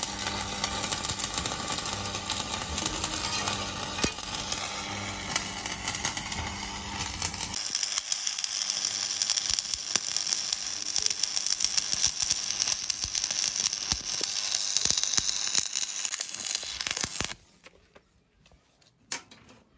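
Stick-welding arc with a 6013 mild-steel electrode, crackling and sizzling steadily during a vertical-up fill pass. A low hum under the crackle drops away about seven seconds in. The arc cuts off suddenly near the end, followed by a few faint clicks.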